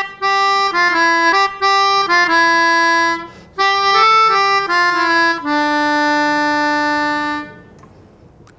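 Harmonica playing a short melody of separate notes, with a brief break about three seconds in, then one long held closing note.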